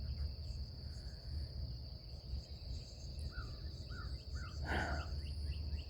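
Dawn countryside ambience: a steady high-pitched trill of insects, with a bird giving a short run of about five quick chirps past the middle, over a low rumble of wind on the microphone.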